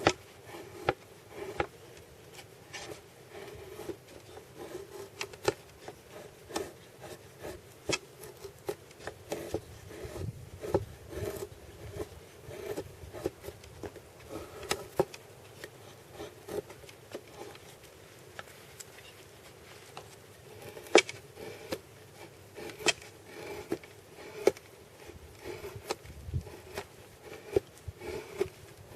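Knife cutting kindling chips from a piece of wood on a small wooden board: irregular sharp clicks and knocks of the blade splitting the wood and striking the board, with scraping between them.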